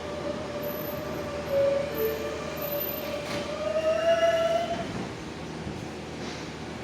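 Subway train in the station: a steady electric whine over a low rumble, which rises a little in pitch about four seconds in and then fades.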